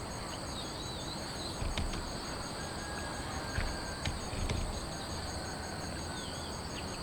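Steady rain hiss with scattered drops ticking sharply, under a steady high-pitched insect trill that pulses evenly. A couple of brief bird chirps come about a second in and again near the end.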